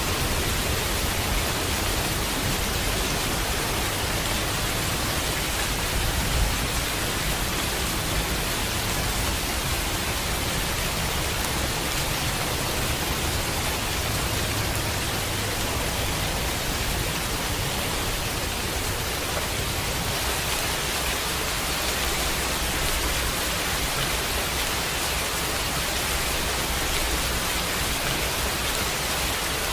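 Steady heavy rain falling: a dense, even hiss.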